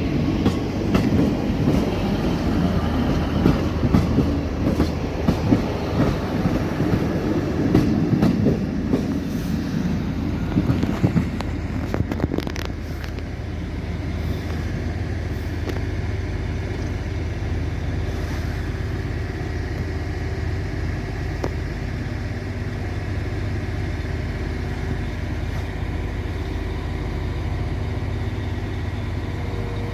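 Diesel multiple-unit train at a station platform: about twelve seconds of rolling noise with rail clatter and clicks, which then settles into a steady, even engine hum.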